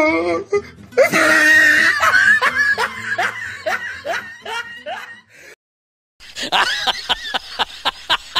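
A man's helpless, high-pitched laughing fit from edited-in meme audio, in repeated falling bursts about two a second. It cuts out for about half a second near six seconds in, then resumes in faster bursts.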